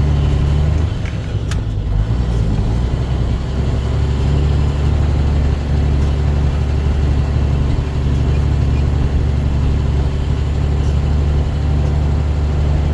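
Dump truck's diesel engine droning under load, heard from inside the cab; its engine speed shifts in the first couple of seconds, then holds steady.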